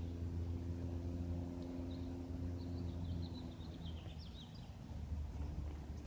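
Drone of a Cessna's propeller engine overhead: a low, steady hum that fades about three and a half seconds in. A small bird chirps a quick run of high notes in the middle.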